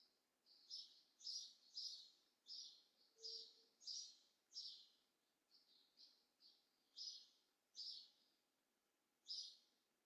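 A small bird chirping: short, high, faint chirps repeated one or two a second, with a few brief pauses.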